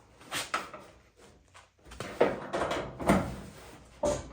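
Steel cab door of a square-body Chevy truck being swung and shut against its latch to check its fit: a couple of light clunks, then a string of louder metal clunks from about two seconds in.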